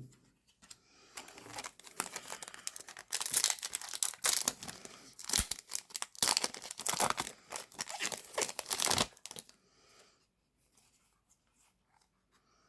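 Foil booster pack wrapper being torn open and crinkled: a run of crackling tears for about eight seconds that stops about three seconds before the end.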